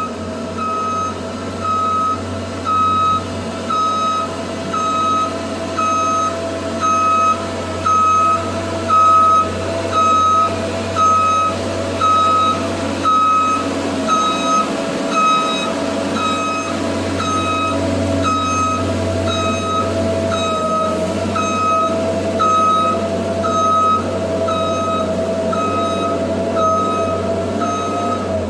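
Tow truck's backup warning alarm beeping about once a second, over the steady hum of the Kenworth's running engine and a steady higher whine.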